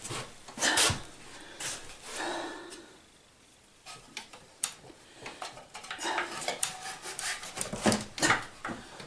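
Small clinks, taps and scrapes of metal bolts being handled and pushed into an engine's mounting holes by hand, with a short lull about three seconds in.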